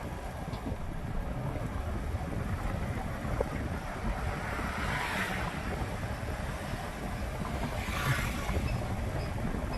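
Wind buffeting the microphone during a bike ride through traffic, a steady low rumble. Two louder swells of hiss rise and fade about five and eight seconds in.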